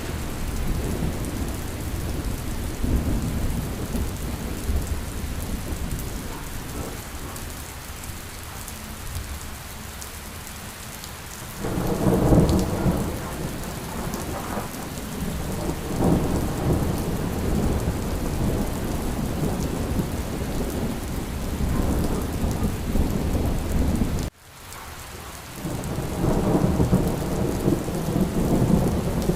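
Steady rain with rolling thunder, the rumbles swelling about twelve seconds in and again near the end. The sound cuts out abruptly for a moment about two-thirds of the way through.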